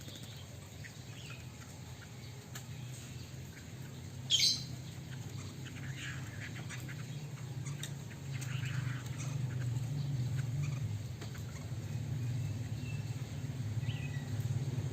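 Short calls of a caged Chinese hwamei: one loud falling chirp about four seconds in, then a few fainter calls. A low steady hum runs underneath and grows louder near the end.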